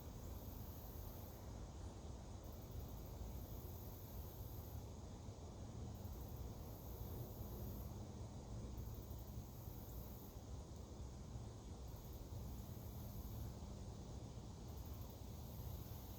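Insects trilling in very high-pitched pulses, each one to two seconds long and repeating about every three seconds, over a faint steady low rumble of outdoor ambience.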